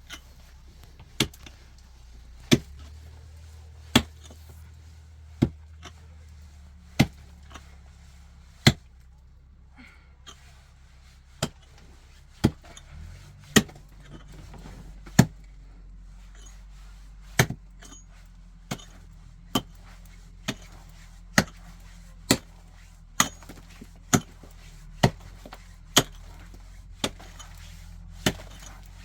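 Repeated sharp chopping knocks, about twenty in all, mostly one every second or so with a short pause in the middle, over a steady low hum.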